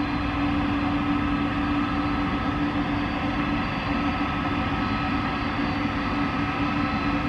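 Airbus A300B4's jet engines running steadily: an even hum with a thin high whine over a low rumble.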